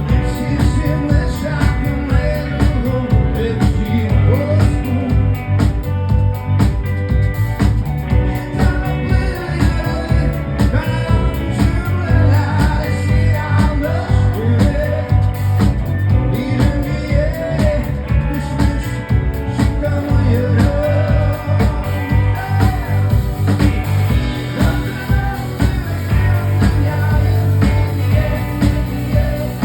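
Live rock band music with drums, bass and guitar keeping a steady beat, and a melodic vocal line over it.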